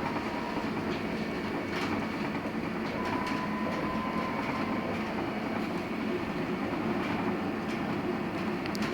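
Cabin noise of a LiAZ-6274 electric bus under way: a steady rumble of tyres and road with a faint whine, and a few short rattles.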